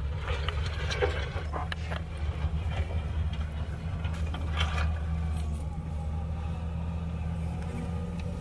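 Heavy diesel engine of earthmoving machinery running steadily, with clanks and rattles in the first two seconds and again about halfway through.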